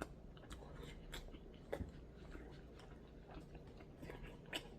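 Close-up chewing of fried chicken and fries, faint and irregular, with scattered small mouth clicks and a few slightly louder bites.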